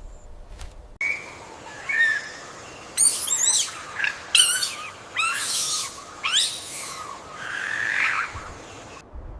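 Bird calls: a series of high-pitched chirps and quick sweeping whistles, several falling in pitch, over a light background hiss.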